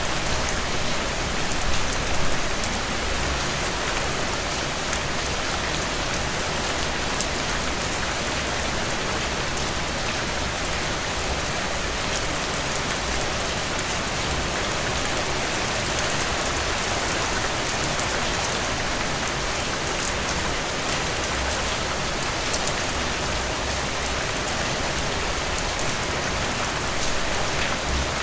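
Steady rainfall, with many fine drops pattering on a surface. No thunder.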